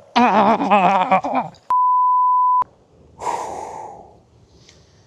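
A man's voice cries out with a wavering pitch, then a steady single-tone censor bleep lasts about a second, followed by a loud breathy gasp.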